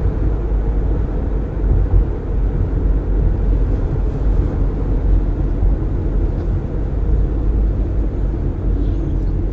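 Steady road noise of a car driving with its windows open: a low rumble of tyres and passing air, with no change in pace.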